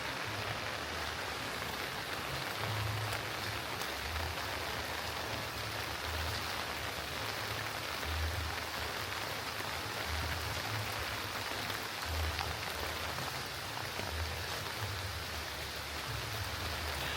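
Steady rain falling and pattering on surfaces, with soft low footfall thuds about once a second from someone walking through it.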